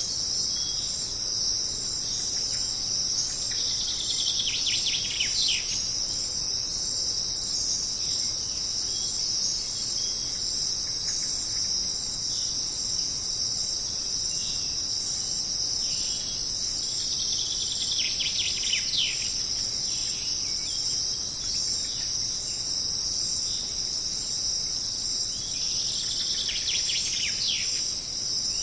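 A dense, steady chorus of insects such as crickets shrilling high and unbroken. A bird gives a short series of falling calls three times: about four seconds in, midway, and near the end.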